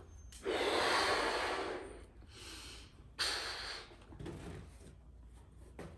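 A person blowing up a rubber balloon by mouth: a long breath of air blown into it about half a second in, a quieter breath, then a second, shorter blow about three seconds in.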